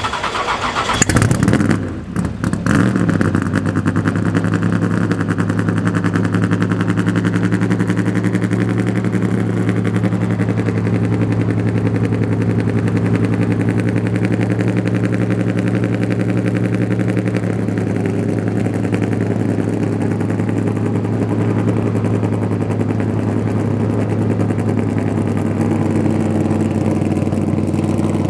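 Corvette's ZL-1 big-block V8 revved once about a second in, the revs falling back, then idling steadily.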